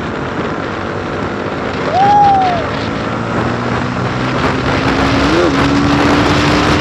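Motorcycle riding on the road, with steady engine and wind noise. A short tone rises and falls about two seconds in, and a steady low hum sets in from about five seconds.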